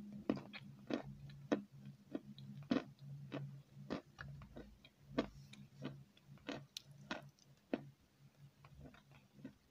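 Close-miked chewing of a soft dessert, heard as sharp, irregular wet mouth clicks about one or two a second, over a faint low hum.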